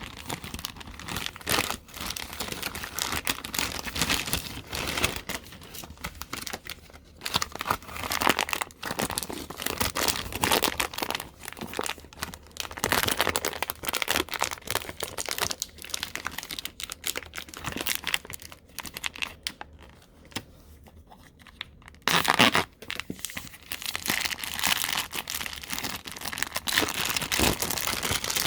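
Plastic packaging crinkling and rustling in irregular bursts as a vacuum-packed jacket is pulled out of its bag, with a short quieter pause about three-quarters of the way through before a loud rustle.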